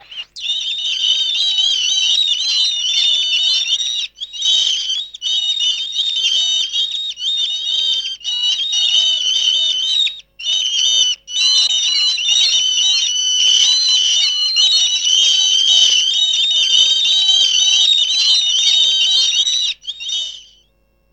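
High-pitched warbling whistles, several wavering tones at once, going on with a few brief breaks and stopping near the end.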